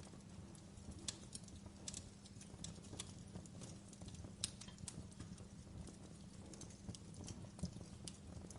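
Wood fire crackling in a fireplace: irregular sharp pops and snaps over a low, steady rumble of flames, the sharpest pop about four and a half seconds in.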